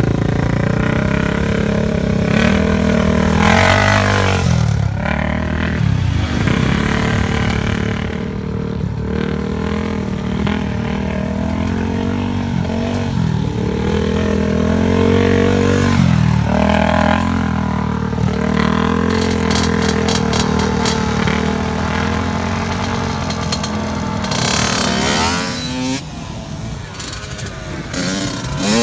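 ATV engine under way on a dirt trail, revving up and easing off again and again, its pitch rising and falling several times. About three-quarters of the way through the engine note drops and gets quieter.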